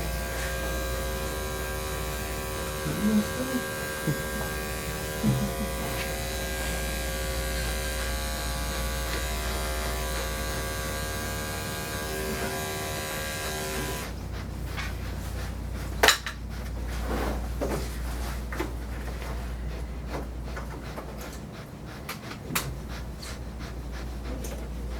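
Electric dog grooming clippers running with a steady buzz while trimming a dog's paw pads, switched off about halfway through, followed by light clicks and knocks of handling.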